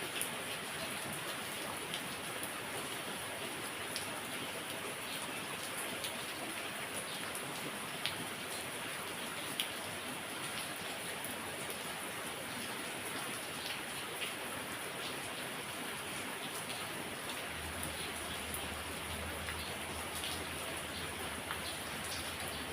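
Heavy rain falling steadily, with individual drops heard as scattered sharp ticks. A low hum comes in about two-thirds of the way through.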